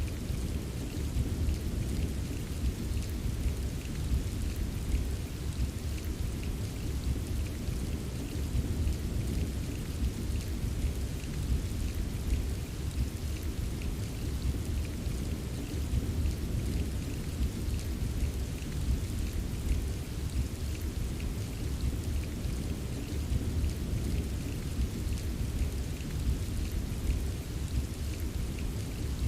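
Steady rain with fine drops tapping, over a continuous deep rumble of distant thunder.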